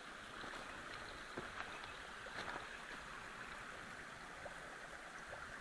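A mountain stream running steadily, with a few faint clicks over it.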